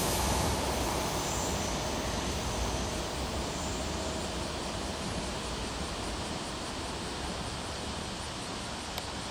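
Osaka Prefectural Urban Development 5000-series electric train running away along the track, its sound fading steadily into an even background noise.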